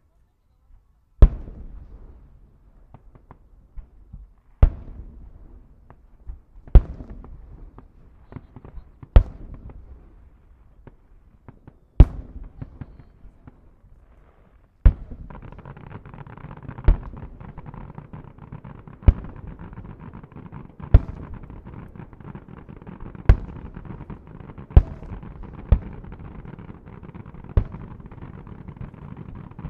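Aerial firework shells bursting in a finale barrage: loud booms every two or three seconds, each trailing off in crackle. About halfway through, the crackle turns continuous as the shells come thicker, with booms still rising above it.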